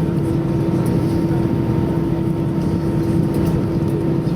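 Steady cabin noise inside an Airbus A320 as it taxis after landing: a low rumble from the engines and air systems with a constant hum, without change.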